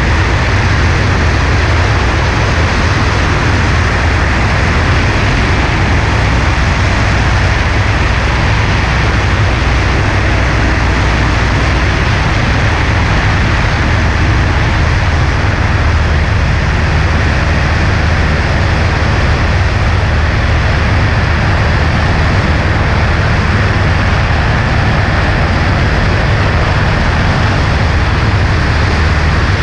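Cessna 140A's single piston engine and propeller running steadily in flight, a constant low drone under loud rushing airflow noise.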